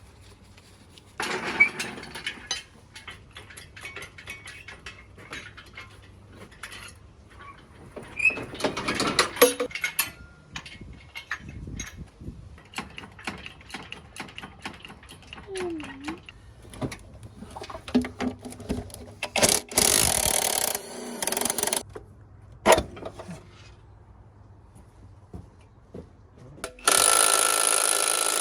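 Workshop sounds of an engine being lifted out with an engine crane: repeated metal clanks, knocks and clicks, broken by four louder stretches of steady noise lasting a second or two.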